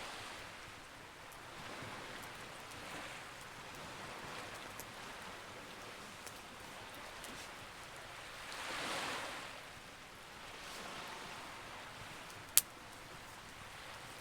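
Sea waves washing in slow swells, the biggest about nine seconds in, with faint ticks and one sharp, loud crackle from a wood fire near the end.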